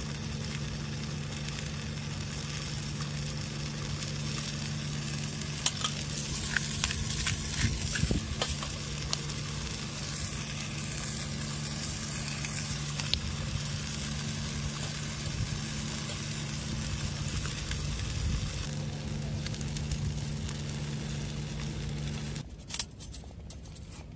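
Food sizzling in a pan over a small wood fire, with scattered clicks of a utensil stirring it, under a steady low hum. Near the end a single click, after which the sizzling drops away.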